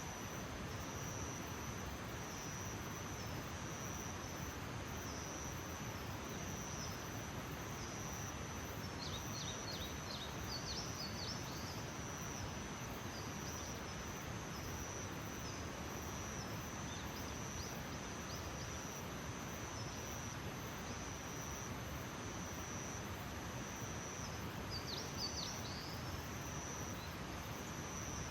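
Insects trilling in a steady high, pulsing tone over a constant hiss of outdoor background noise, with a few quick bird chirps about a third of the way in and again near the end.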